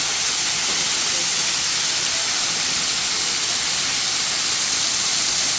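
A waterfall close by: a steady, loud rush of falling water.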